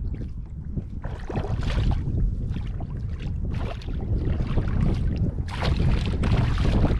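Water splashing and sloshing in bursts from about a second in, over a steady low rumble of wind on the microphone, aboard a fishing kayak.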